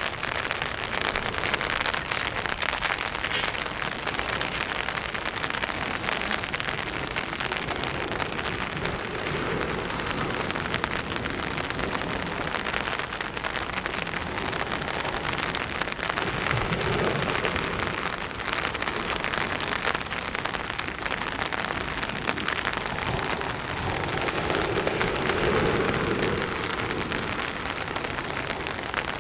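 Steady rain falling, thousands of fine drops striking a surface, with wind swelling in low gusts around the middle and again near the end.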